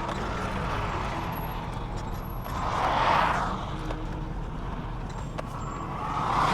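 Jeep Cherokee XJ engine running steadily at low speed, with a rushing noise that swells up and fades about three seconds in.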